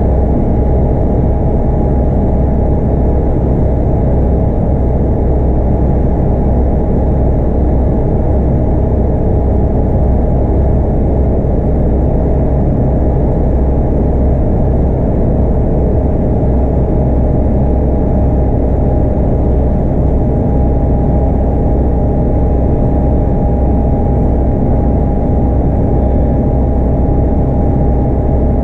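Scania K230UB bus with its 8.9-litre five-cylinder DC9 diesel and ZF Ecomat automatic, heard running steadily with no gear change or change in pace: a heavy low drone with a thin steady whine above it.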